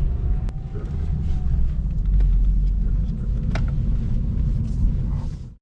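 Steady low road and tyre rumble heard inside a moving Lada Vesta's cabin, with a few faint knocks. The sound drops out abruptly at the very end.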